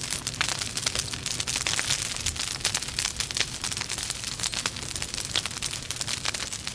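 Wood logs burning in a fireplace, crackling with many irregular sharp pops over a steady soft hiss.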